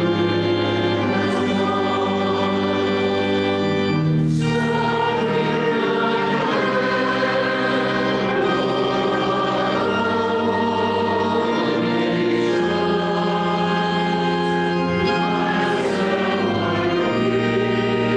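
Voices singing a hymn together to pipe-organ accompaniment, sustained chords moving from one to the next at a steady level.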